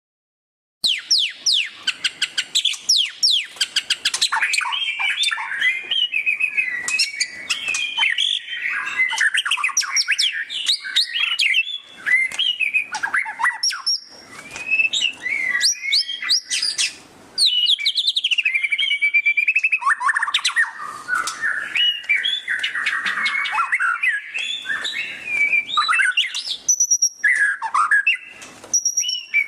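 White-rumped shama (murai batu) singing loudly in the fast chattering 'ngeriwik' style: a dense, unbroken run of quick, varied whistles and twitters with rapid rising and falling glides. The song begins about a second in and pauses only briefly twice.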